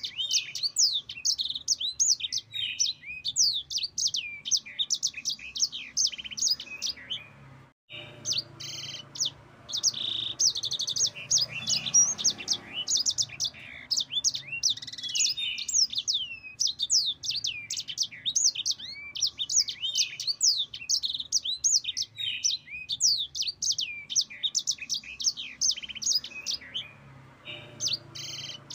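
Yellow-fronted canary (the bird hobbyists call sanger or Mozambique) singing a long, fast rolling song of rapid high chirps and trills. There is a brief break about eight seconds in.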